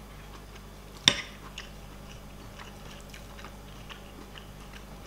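A person chewing a mouthful of food with small mouth clicks, and one sharp click about a second in.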